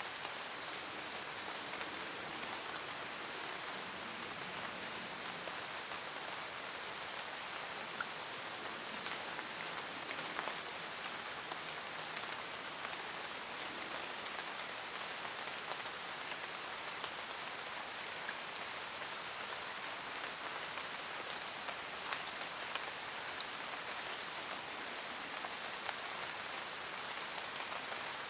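Steady rain falling on forest leaves, a constant hiss with many small, separate drop ticks scattered through it.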